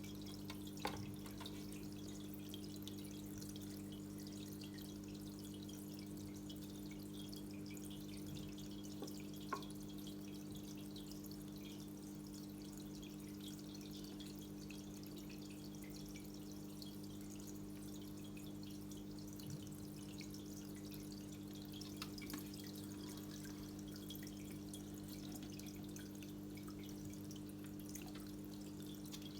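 Quiet running aquarium: a steady low hum from the tank equipment, with a few faint water drips.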